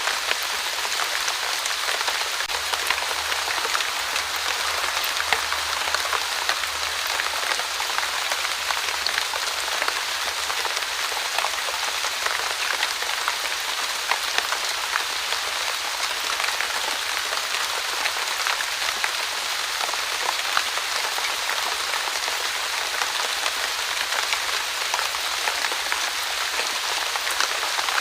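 Steady light rain falling on a surface, an even hiss flecked with many small drop ticks.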